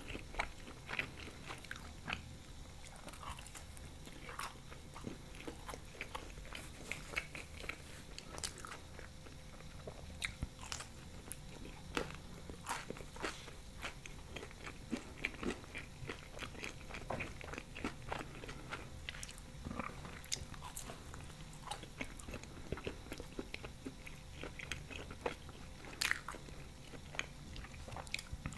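Close-miked biting and chewing of thin-crust ham and onion pizza, with many small irregular crunching clicks of the crisp crust.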